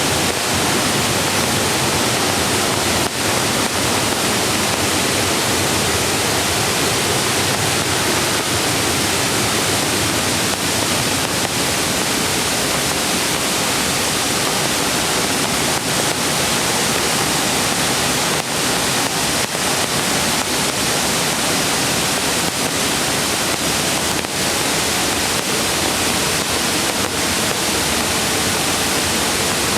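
Mountain creek rushing over rocks: a steady, loud wash of flowing water.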